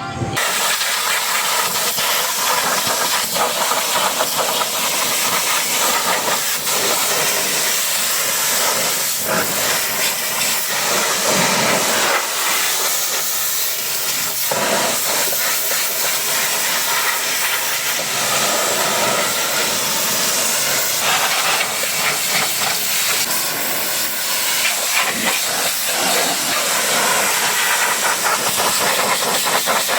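Pressure washer jet spraying water, a loud continuous hiss that starts abruptly and holds steady.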